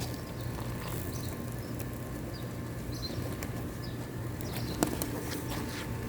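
Pigeons feeding, with wings flapping and light tapping, short high chirps throughout, and a sharp click about five seconds in, all over a steady low hum.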